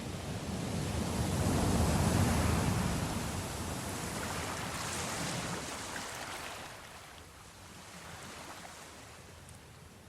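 Ocean waves on a shore: one wave swells to its loudest about two seconds in and washes back over the next few seconds, leaving a quieter lull near the end.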